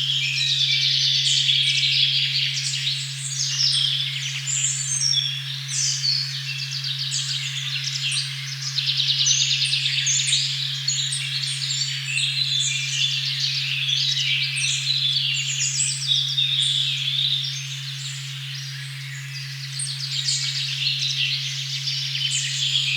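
A steady low pure tone at 136.1 Hz, the 'OM' frequency, hums under a dense forest chorus of many birds chirping and trilling. The birdsong thins briefly about three-quarters of the way through.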